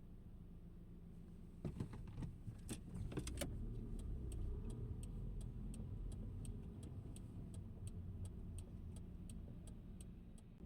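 Car driving, with a steady low engine and road rumble. A few sharp clicks come about two seconds in, then a steady ticking at about three a second through the second half.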